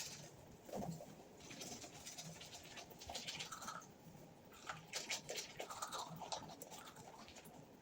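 Toothbrush scrubbing against teeth in short, irregular strokes.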